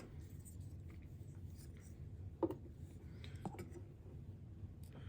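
Small parts of an electric shaver being handled on a bench: quiet rubbing and light ticks, with one sharp click about halfway through.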